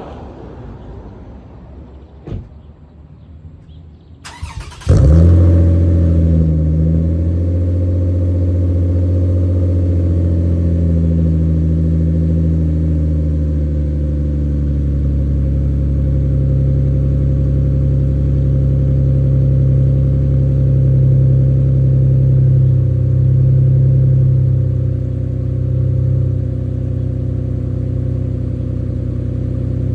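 2008 Toyota Aurion's 3.5-litre V6 cranked on the starter about four seconds in, catching with a loud flare and then settling into a steady, deep idle through a straight-through exhaust with J-pipe headers and no resonator. A single click comes shortly before the start.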